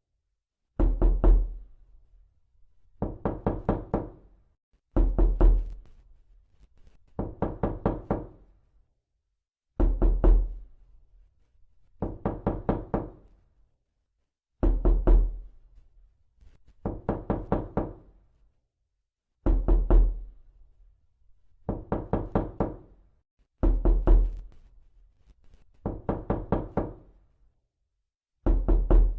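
Knocking in repeated rounds of four or five quick raps, a new round about every two seconds with a short silence between, several rounds opening with a deeper thump.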